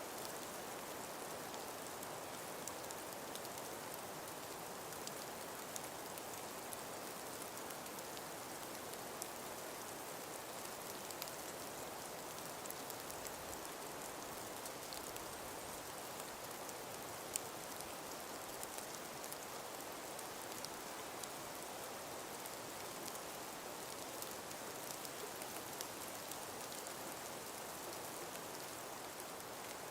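Steady soft outdoor hiss with many faint, scattered pattering ticks through it, rain-like, and one sharper tick about 17 seconds in.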